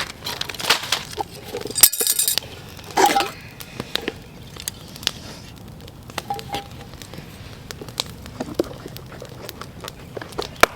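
Camp cookware and gear being handled: scattered light clinks and knocks of metal pots and utensils, with a louder clattering burst about two seconds in.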